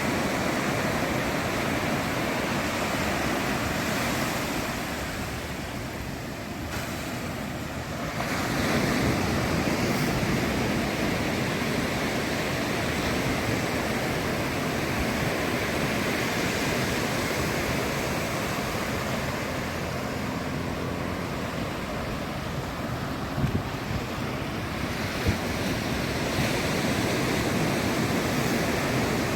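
Ocean surf washing on a sandy beach, a steady wash that eases a few seconds in and builds again as a wave breaks about 8 seconds in. Light wind on the microphone.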